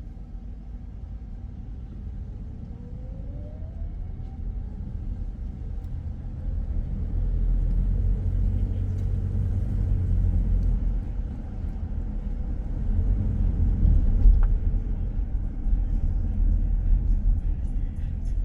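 Car driving: a steady low rumble of engine and road noise, growing louder about seven seconds in, with a brief rising whine about three seconds in.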